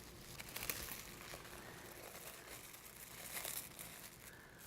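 Faint crinkling and rustling of wrapping being sealed up, with a few louder crackles about three and a half seconds in.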